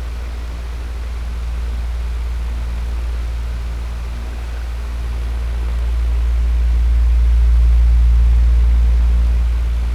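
Electric fan running steadily: a deep hum with an airy hiss of moving air, swelling slowly louder toward the end and then easing off.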